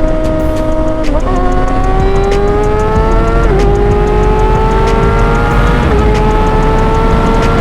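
Kawasaki ZX-6R inline-four engine accelerating, its pitch climbing steadily and dipping briefly three times as it upshifts through the gears with the quickshifter. A steady wind rush runs underneath.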